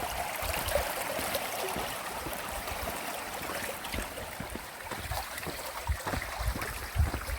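Running water rushing steadily, with a few low thumps near the end.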